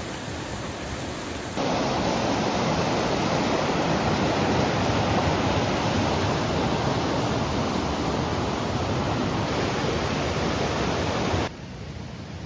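Rushing creek water, a steady, even roar. It jumps louder about a second and a half in and drops sharply near the end, where the clips change.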